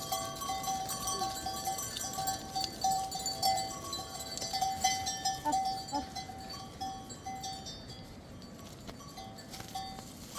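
Bells on a flock of sheep and goats clanking and jingling as the animals move, many bells ringing over one another, thinning out for a few seconds past the middle.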